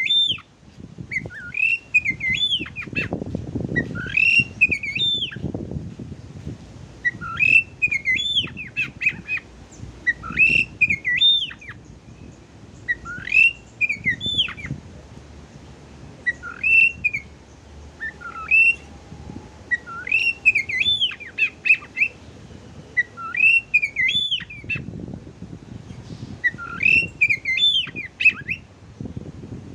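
Oriental magpie-robin song: short, fast rising-and-falling whistled phrases, repeated about every three seconds.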